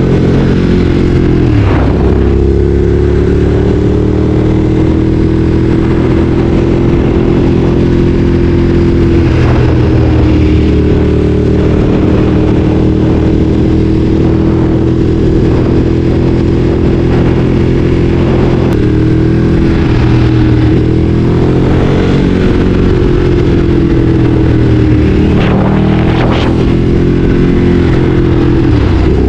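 Ducati Streetfighter 848's L-twin engine running loud and steady under way, its pitch dipping and recovering several times.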